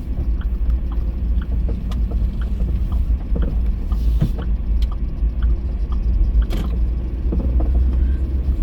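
Steady low rumble of a road vehicle, with scattered light clicks and knocks over it.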